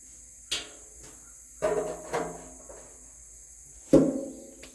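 Metal objects clanking together three or four times, each knock ringing briefly. The loudest comes near the end.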